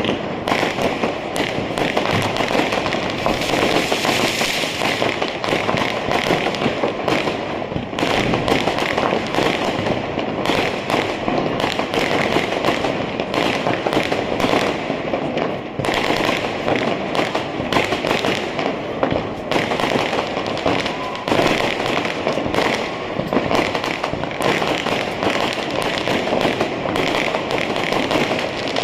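Firecrackers and fireworks crackling continuously, with many rapid pops overlapping into a dense, unbroken crackle.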